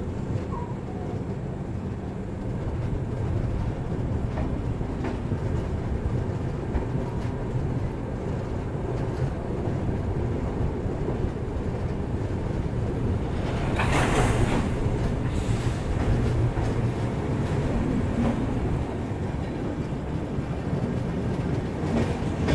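The Bihar Sampark Kranti Express moving off from a station, rumbling steadily along the track with occasional clicks. About fourteen seconds in there is a short, loud burst of noise.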